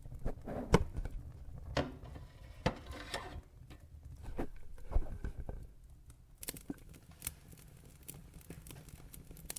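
Fire burning in a fireplace: irregular crackling and sharp pops over a low steady rumble. The loudest pops come in the first half, and a lighter, quicker crackle follows from about six seconds in.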